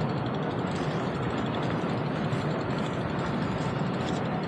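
Steady low engine rumble with no change in pitch or level.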